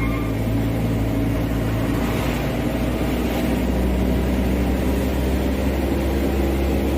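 Mitsubishi Canter 125HD dump truck's diesel engine running steadily while driving, heard from inside the cab, hauling a heavy load of wet sand.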